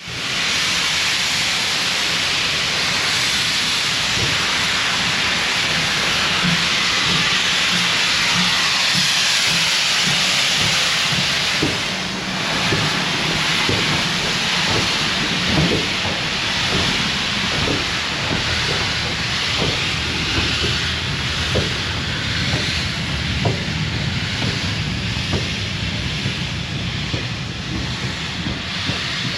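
Steam locomotive hissing loudly and steadily as it lets off steam, the hiss starting abruptly. About twelve seconds in the hiss eases a little and irregular metallic knocks and clanks come through it.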